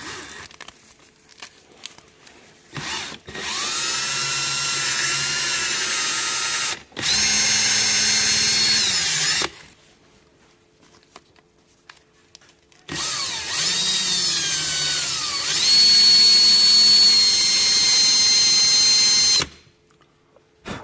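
A handheld electric power tool, drill-like, whining as it cleans starter-motor parts. It runs in two long spells of several seconds each, with a short pause between them, and its pitch dips and climbs as the load changes.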